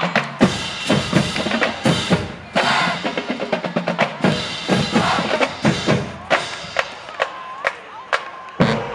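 Marching band drumline playing, with snare drums and bass drums beating out a cadence of quick, sharp strokes.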